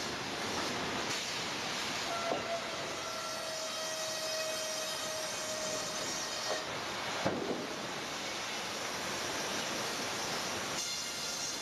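Sawmill machinery running with a steady hissing noise. A held whining tone sounds from about two seconds in for about four seconds, and there is a sharp knock about seven seconds in.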